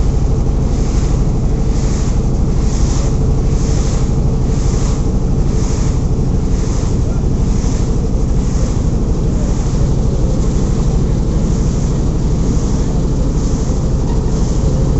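Motorboat engine running steadily, with rushing water and wind buffeting the microphone; a hiss swells about once a second.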